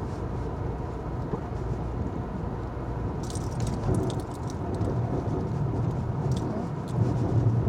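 A Chevy driving, heard from inside the cabin: a steady low rumble from the engine and tyres, with a few faint clicks about three to four seconds in.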